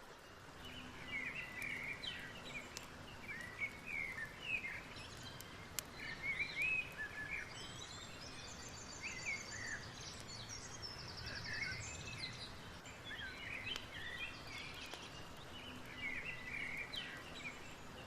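Several birds singing, short chirps and whistles throughout, with fast, high, buzzy trills in the middle, over a steady background hiss.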